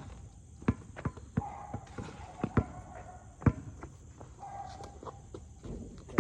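A basketball being dribbled on a court: sharp, irregularly spaced bounces, most of them in the first three and a half seconds.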